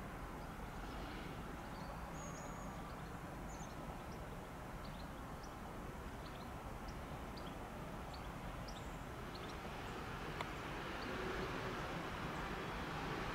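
ÖBB Talent electric multiple unit approaching, a steady low rumble of its running that grows louder over the last few seconds, with faint bird chirps over it.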